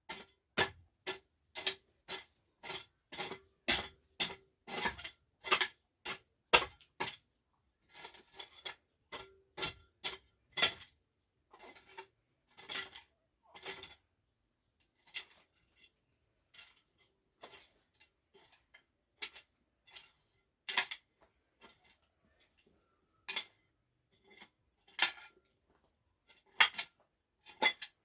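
Hammer strikes with a slight metallic ring: a steady run of sharp blows about two a second for the first seven seconds, then irregular bunches of taps with longer gaps.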